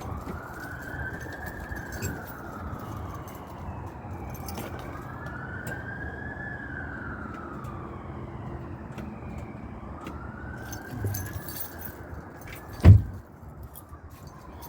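A siren wailing slowly up and down, three long rise-and-fall cycles. A single sharp thump about thirteen seconds in is the loudest sound.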